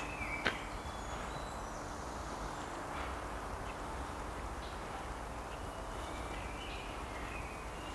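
Outdoor park ambience: a steady background hiss with faint, scattered bird chirps and a single click about half a second in.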